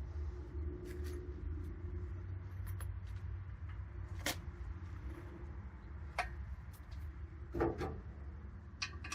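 A few light clicks and knocks of metal engine parts and tools being handled, the loudest about three quarters of the way through, over a steady low hum.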